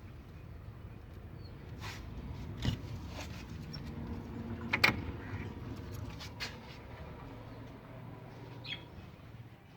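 A few sharp knocks and clicks over a low steady rumble, the loudest about halfway through, with a short bird chirp near the end.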